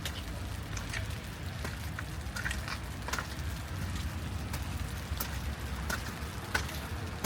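Wet city street ambience in light rain: scattered drips and taps over a steady low rumble of distant traffic.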